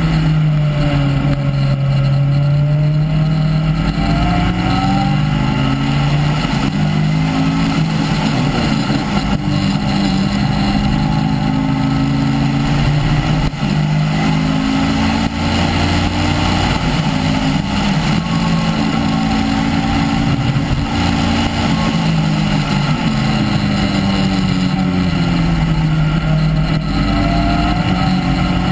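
Caterham R300's four-cylinder engine running through an un-silenced exhaust, heard from the open cockpit on track, its pitch climbing under acceleration and dropping when lifting off for corners, over and over.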